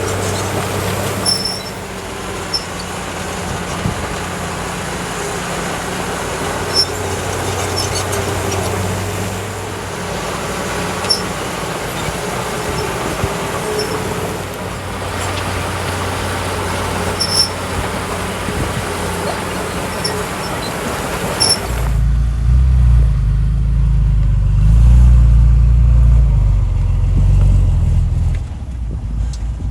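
Small crawler bulldozer's diesel engine running under work, with scattered sharp metallic clinks. About 22 seconds in the sound changes abruptly to a louder, deeper engine rumble that drops away near the end.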